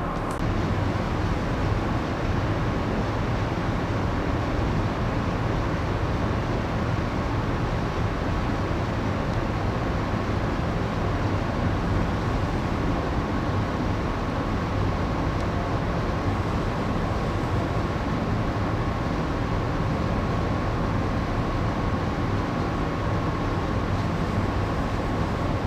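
Steady hum of a moored passenger ship's onboard machinery heard inside the vessel, a deep drone with a thin steady high whine over it.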